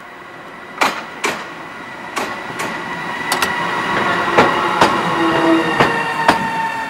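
Freight train headed by a Siemens Vectron class 192 electric locomotive passing close by. Its wheels give a series of sharp clacks over the rail joints over a steady high whine, growing louder as the locomotive draws alongside.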